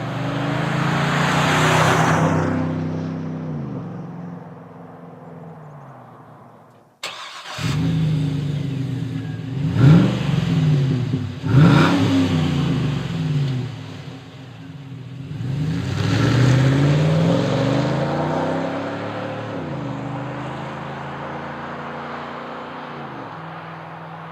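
GM heavy-duty pickup's 6.0-litre gas V8 running through a Flowmaster Force II cat-back exhaust with a 50 Series Big Block muffler. The engine speed rises and falls in three runs: a first pull up and back down, then after a sudden cut two quick sharp revs, then a longer pull up that slowly eases off.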